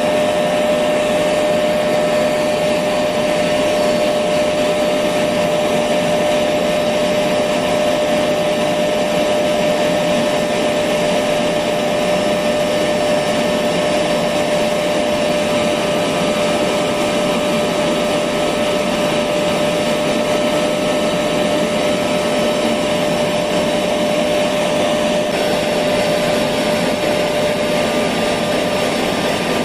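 Electric vacuum cleaner running steadily, a constant rushing noise with a steady whine. Played as continuous white noise to lull a baby to sleep.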